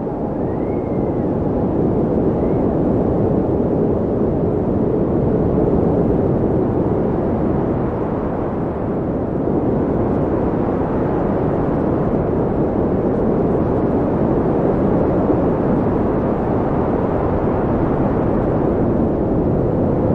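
Wind blowing steadily, a low rushing noise that swells and eases slowly, with a couple of faint rising and falling whistles in the first two seconds.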